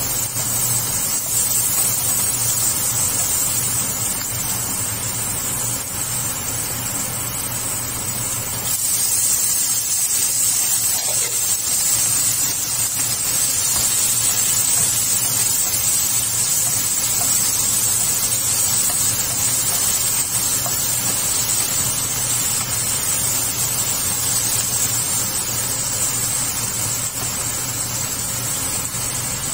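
Onions, ginger and tomatoes sizzling in hot oil in a nonstick frying pan, a steady frying hiss that gets louder about eight seconds in, with a steady low hum underneath.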